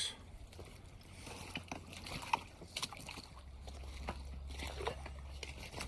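Shallow creek water faintly sloshing and trickling over rocks, with scattered light clicks.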